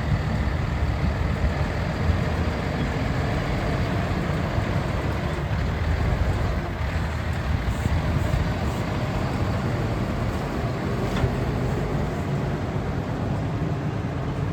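Heavy diesel truck running, the International MV607's Cummins L9 engine: a steady low rumble with no sharp events.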